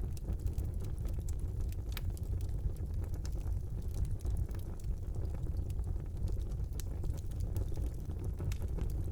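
Fire burning in a fireplace: a steady low rumble under scattered crackles and small pops, with sharper pops about two seconds in and again near seven seconds.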